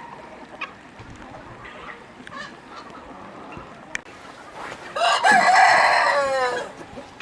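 A rooster crows once, a loud call of about a second and a half starting some five seconds in, falling in pitch at the end, over quieter clucking of chickens.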